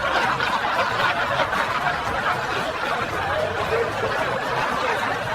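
A group of people laughing and chuckling steadily, many voices overlapping.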